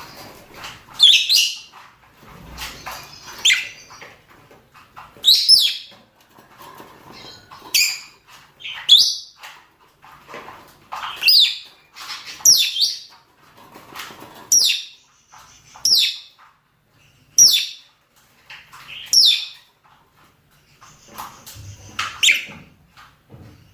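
Lovebirds giving mating calls: short, shrill shrieks, each sweeping down in pitch, repeated every second or two and sometimes in quick pairs.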